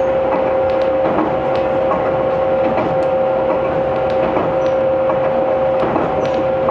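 Aizu Railway 6050 series electric train running at a steady speed, heard from inside the passenger car: a steady roar with a constant two-note hum and occasional light clicks.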